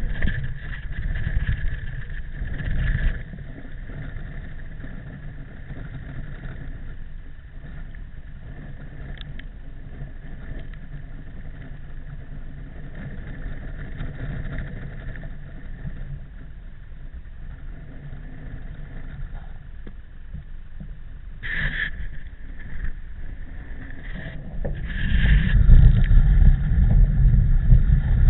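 Wind rushing over a camera microphone during a bicycle ride, a steady low rumble that gusts louder at the start and again near the end.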